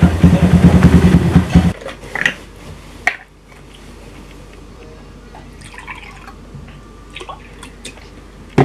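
Honda Verza's single-cylinder motorcycle engine running for about the first two seconds, then it cuts off. After that, a few light clicks and faint pouring of liquid into a glass, with one sharp knock near the end.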